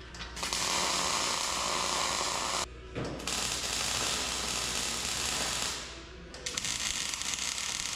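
A rasping mechanical noise from a tool at work, in three long stretches broken by short pauses about three and six seconds in.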